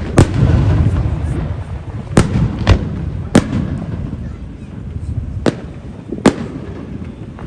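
Aerial fireworks bursting: about six sharp bangs at irregular intervals, with a rolling rumble after the first one.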